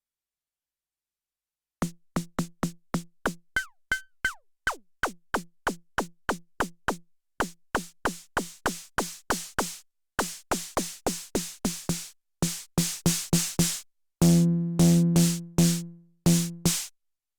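Elektron Syntakt's analog AR SD Hard snare drum machine, played dry, starting about two seconds in with a steady run of snare hits, about four a second, each with a pitched body. As its settings change the hits grow brighter and noisier, a few fall in pitch, and near the end they ring out longer with a buzzy tone.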